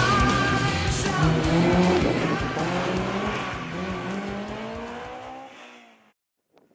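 A car engine accelerating hard, its pitch climbing steadily, under rock music. The sound fades out to silence about six seconds in.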